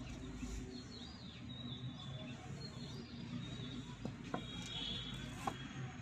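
Small birds chirping over a steady low hum, with a few light clicks about four and five and a half seconds in from wire and sticks being handled on a wooden trap frame.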